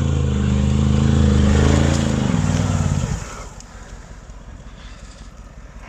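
Off-road 4x4's engine revving hard under load on a steep climb, its pitch rising a little then sagging, before it drops off abruptly about three seconds in to a quiet low idle.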